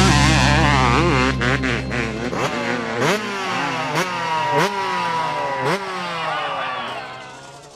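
Motorcycle engine revved in repeated throttle blips, each jump in revs followed by the pitch falling away, before the sound fades out near the end.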